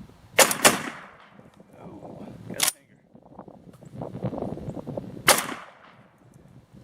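ATA Arms CY Tactical 12-gauge semi-automatic shotgun firing low brass birdshot: two shots in quick succession near the start, a shorter, sharper bang about two and a half seconds in, and another shot a little past five seconds. In this string the gun fails to eject a spent shell.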